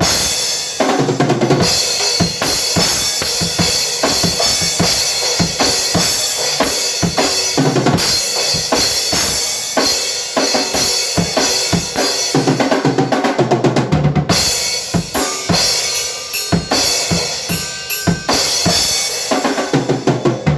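Drum kit played at a fast pace, with quick bass drum and snare strokes under a continuous wash of cymbals that drops out for a moment a few times.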